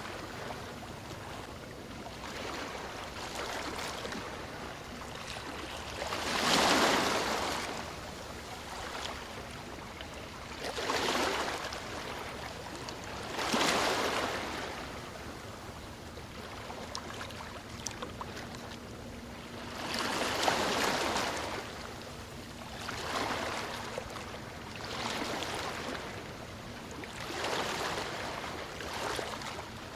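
Ocean waves washing onto a shore, each wave a swell of rushing hiss that rises and falls away, coming every few seconds; the loudest break about six seconds in and another about twenty seconds in.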